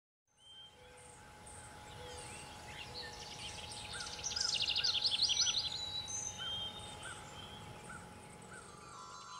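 Several birds singing, fading in after a moment of silence: one gives a fast trill of rapid high notes around the middle, another repeats a short call at an even pace, over a faint steady tone.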